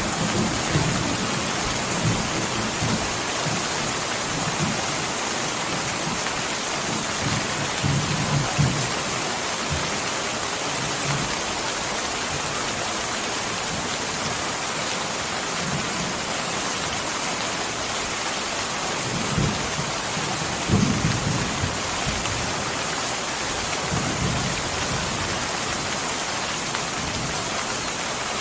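Steady heavy rain, with low rumbles of thunder swelling up now and then, most strongly about a third of the way in and again around two-thirds through.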